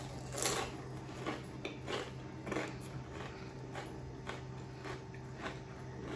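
A person chewing a bite of a crisp snack cone filled with tuna salad: soft crunches, one every half second or so.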